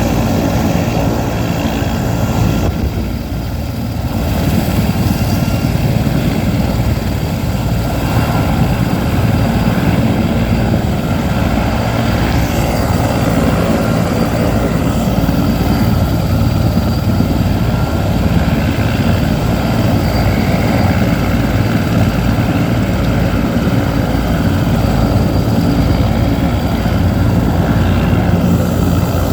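Sikorsky S-64 Skycrane helicopter running, its twin turbine engines and rotor making a loud, steady rumble with constant whining tones above it. The sound eases briefly a few seconds in, then holds steady.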